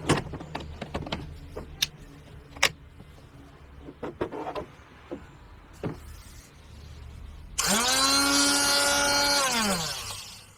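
Clicks and knocks of parts being handled, then a 775 DC motor switched on about seven and a half seconds in. It runs with a steady whine for about two seconds, then spins down with falling pitch.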